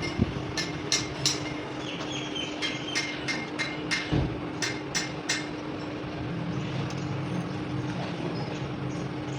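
Sharp metal taps, about two to three a second, from hammer work on the clutch plate, over a steady machine hum with a constant tone. The taps stop a little past halfway through while the hum carries on.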